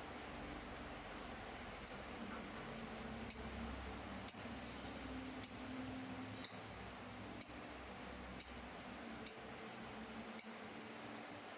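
A labet Sultan songbird giving a series of about nine short, sharp high call notes, roughly one a second, beginning about two seconds in.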